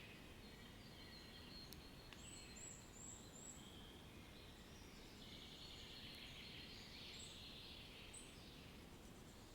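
Faint nature ambience: a steady low rumble with birds singing. A run of four short high notes comes about two seconds in, and a couple of single high chirps near the end.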